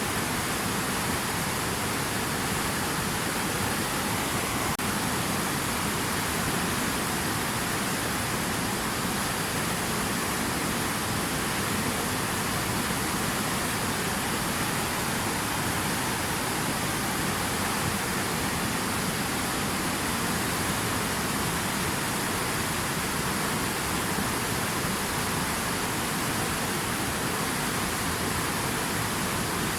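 Steady rushing water, an even unbroken hiss with no drops, splashes or changes.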